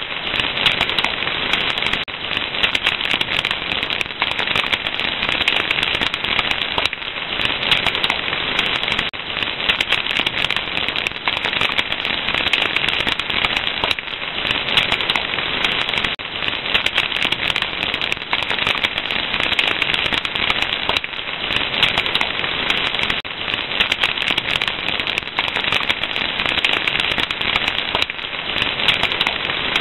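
Fire crackling: a dense, continuous stream of small pops and snaps over a soft hiss.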